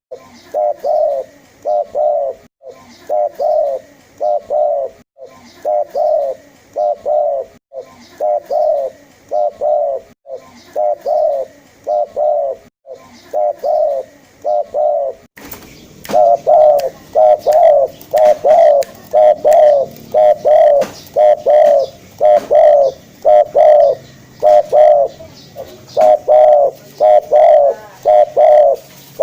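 Spotted dove (tekukur) cooing over and over in a steady rhythm, roughly one coo phrase a second. The calls jump noticeably louder about halfway through.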